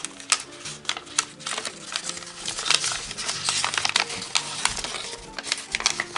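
Crisp crackles and snaps of kami origami paper being creased and handled as mountain folds are pressed in, over soft background music.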